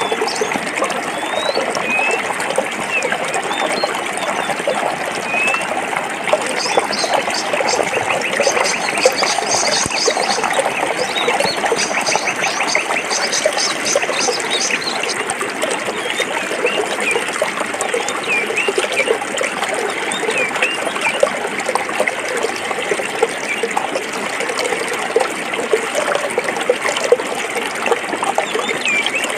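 A forest stream running and splashing steadily over rocks. Short high chirps sound over it, and a fast run of repeated high calls lasts from about a quarter of the way in to about halfway.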